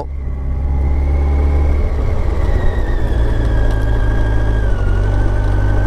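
Kawasaki ZZR1400's inline-four engine running steadily under way, heard over a low rumble. Its high whine sinks slightly in pitch about three-quarters of the way through as the bike eases off.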